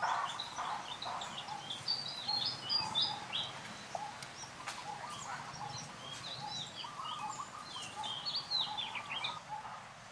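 Birds chirping: many short, quick high calls overlapping throughout, with some lower, softer calls mixed in.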